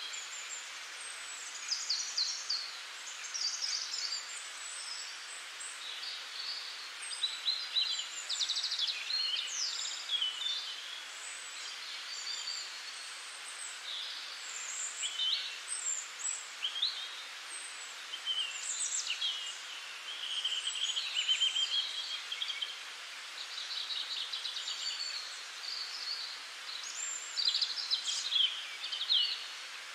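Several small songbirds chirping and trilling, their calls overlapping and coming every second or so, over a steady hiss.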